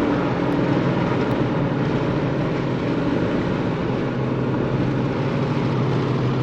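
Steady engine and road noise of a vehicle driving, with a constant low hum.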